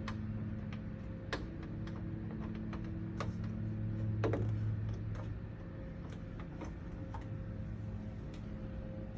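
Irregular light clicks and taps of small plastic and cardboard diorama pieces being handled and fitted together, over a steady low hum.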